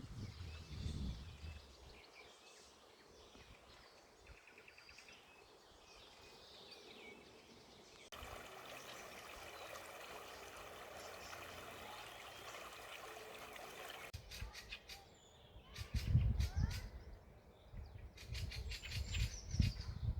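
Outdoor spring ambience: small birds chirping and singing faintly, then a steady rush of running water from about a third of the way in, and low rumbles with clicks near the end.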